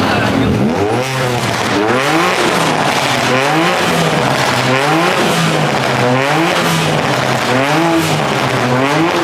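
Car engine revving up and falling back again and again, about once a second, over a loud steady rushing noise.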